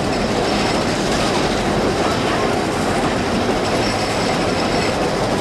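A 3 ft narrow-gauge train running, heard from aboard: the steady, even noise of the cars' wheels on the rails and the moving train.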